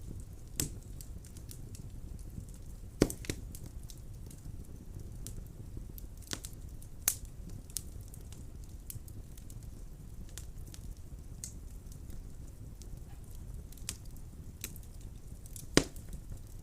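Wood fire burning in a fireplace: a steady low rumble of flame with scattered sharp crackles and pops, the loudest pops about three seconds in and near the end.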